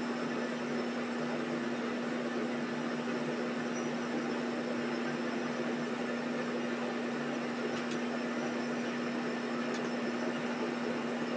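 Steady machine hum with a constant low tone under a broad hiss, unchanging throughout, with two faint ticks near the end.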